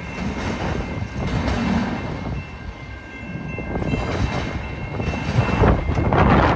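Autorack freight cars rolling past on the rails as the last cars of a CSX train go by, a low rumble with a thin steady high squeal over it. Near the end, wind buffets the microphone.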